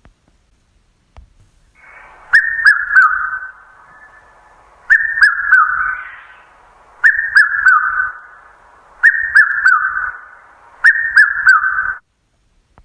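Recorded call of an African bird: five phrases about two seconds apart, each a quick run of three or four clear whistled notes that drop in pitch.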